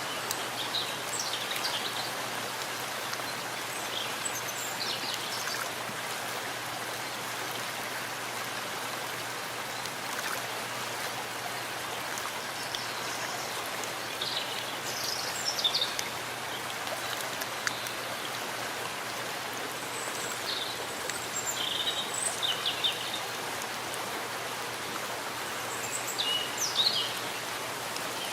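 Steady rain falling in a forest, an even hiss. Birds chirp over it now and then, in short bursts of high calls, the clearest about halfway through and near the end.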